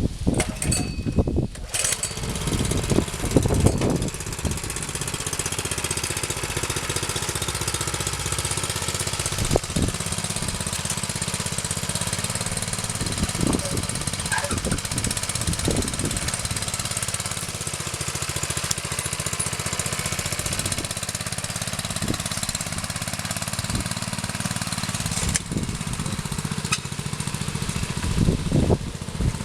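Screw-cone wood splitter driven by a 600 W washing-machine motor, running steadily through birch. There are sharp knocks about two seconds in and again near the end.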